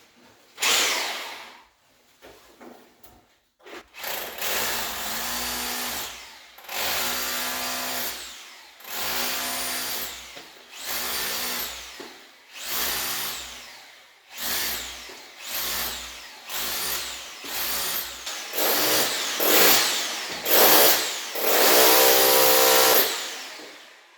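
Handheld power tool raking old mortar out from between stones, run in about a dozen short bursts of a second or two. Its motor spins up and winds down each time, and the bursts grow louder near the end.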